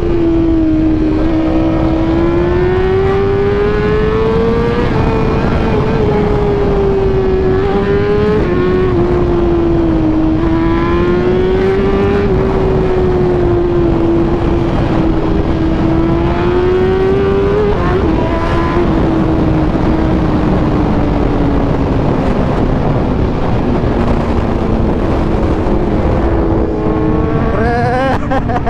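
Superbike engine running hard at speed, its note drifting slowly up and down with the throttle, with other engine notes sweeping up now and then.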